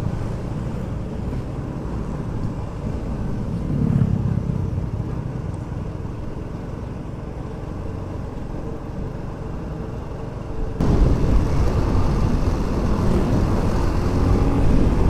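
Motorcycle riding noise: the engine running with wind and road rumble on the rider's microphone. About eleven seconds in it suddenly becomes louder and fuller.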